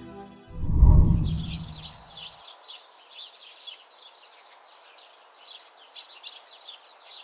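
Small birds chirping, many short high calls repeating over faint outdoor background noise. Near the start a louder low swelling sound rises and dies away within about two seconds.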